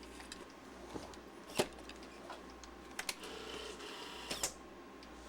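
Sharp mechanical clicks, several spread across a few seconds, with a short faint whir in between, from a Sony Betamovie camcorder running its basic functions on a rebuilt NP11 battery pack.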